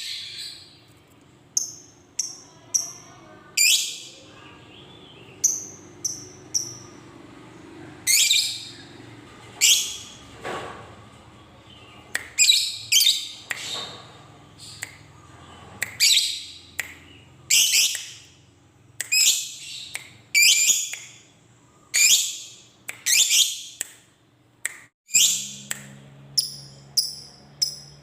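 Lovebird calling: a long run of short, sharp, shrill shrieks, about one to two a second at uneven spacing.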